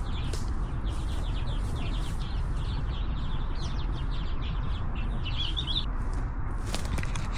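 Small birds chirping in quick short notes, with a denser run of chirps about five seconds in, over a steady low rumble.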